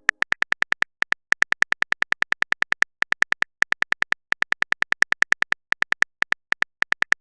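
Typing sound effect: a rapid run of short, identical high clicks, about eight a second, stopping briefly now and then as if between words.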